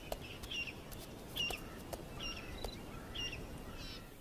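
Birds chirping in a quiet outdoor ambience: a series of short, high chirps, about one or two a second, with a few faint ticks between them.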